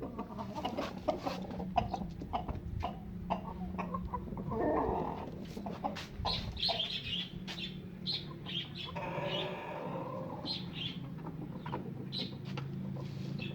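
Chickens clucking, with two longer calls about four and nine seconds in, over short bird chirps and scattered clicks and a steady low hum.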